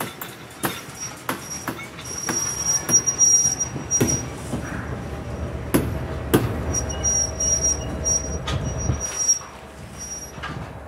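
Train rolling past, its wheels clicking over rail joints, with a high, steady wheel squeal that comes and goes and a heavy rumble that dies away near the end.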